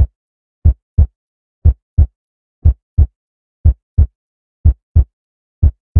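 Heartbeat sound effect: a steady 'lub-dub' of paired deep thumps, about one beat a second, with silence between beats.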